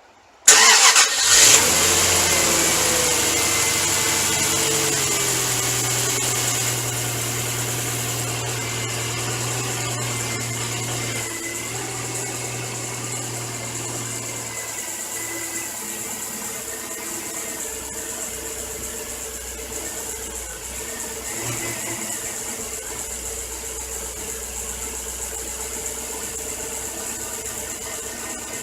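Jaguar XJ8's V8 engine starting with a short crank and catching, flaring to a fast idle and then slowly settling lower. This is its first start after the throttle body was taken apart and rebuilt.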